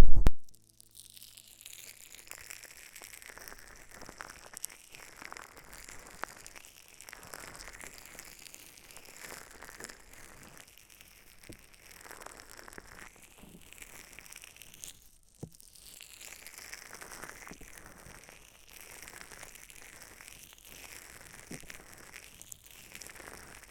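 Soft, quiet crinkling and rustling close to the microphone in slow swells, with occasional small clicks.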